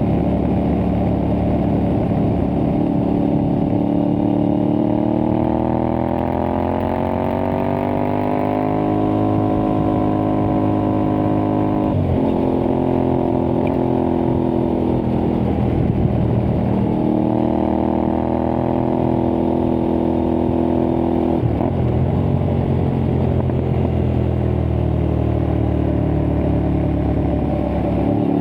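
Aprilia Tuareg 660's parallel-twin engine through an aftermarket Akrapovič-replica exhaust, pulling under way and rising in pitch as the bike accelerates. Brief breaks for gear changes come about twelve, sixteen and twenty-one seconds in, each followed by a steady pull.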